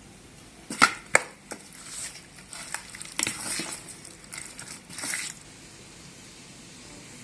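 Food-preparation handling sounds: two sharp knocks, then a few seconds of scraping and crunching that stops about five seconds in.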